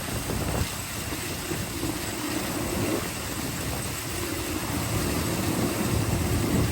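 Diesel engine of large farm harvest machinery running steadily, with a low rumble.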